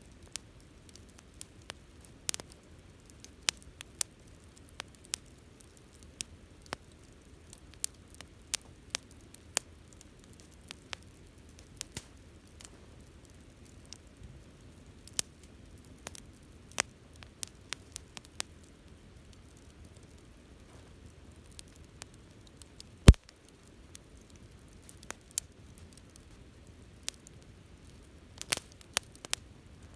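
Wood bonfire crackling: irregular sharp pops and snaps over a low, steady hiss, with one much louder pop about three-quarters of the way through.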